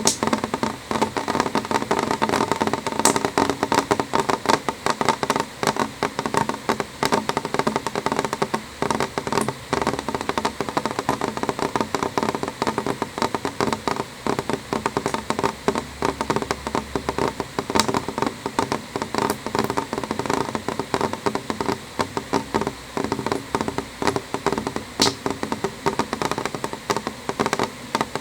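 Rain on a window: a dense, steady stream of small taps as drops hit the glass, with a few sharper single ticks scattered through.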